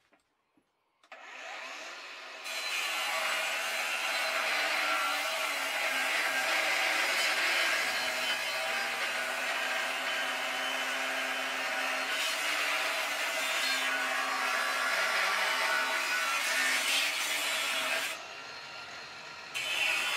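Electric power saw cutting wood: the motor starts about a second in, runs steadily through one long cut, eases off near 18 seconds, then bites briefly again at the end.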